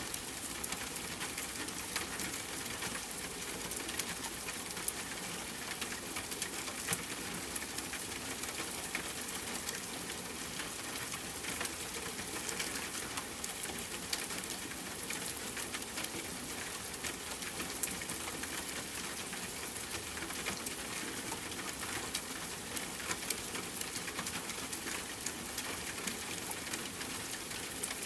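Steady rainfall, an even hiss with many sharp drops ticking on a hard surface scattered through it.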